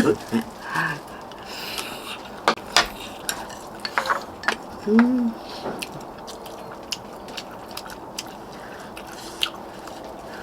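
Eating at the table: spoons and chopsticks clicking sharply against bowls, with wet slurping and dripping of stew broth, and a brief hum of a voice about halfway through.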